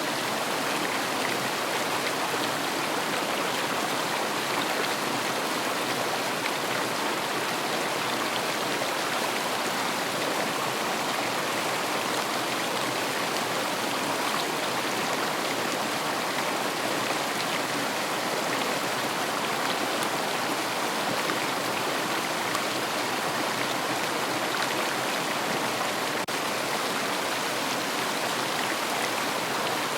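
River water rushing and splashing over stones, a steady, even rush.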